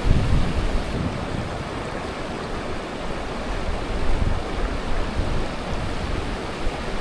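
Strong wind buffeting the microphone, gusty low rumbling over a steady rushing noise.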